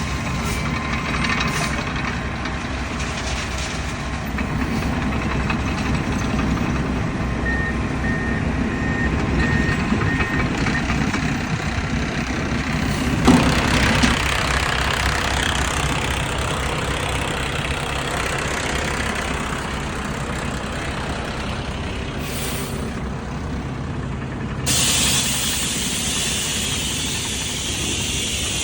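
Dump truck's diesel engine running steadily. About a third of the way in comes a short run of high, evenly spaced beeps. About halfway through there is a sudden loud burst of hissing, and a steady hiss sets in near the end.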